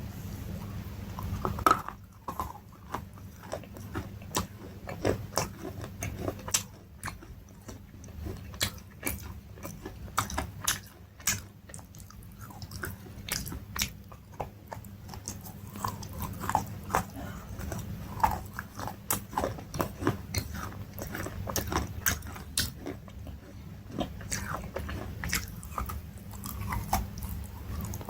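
Close-miked crunchy eating: repeated crisp bites and chewing, with many sharp crackling crunches through the whole stretch.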